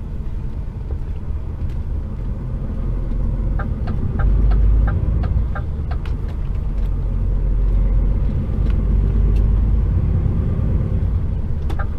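An HGV container truck's diesel engine and road rumble heard inside the cab. The low rumble swells about four seconds in and again later as the truck pulls, with a short run of light, evenly spaced ticks in the middle.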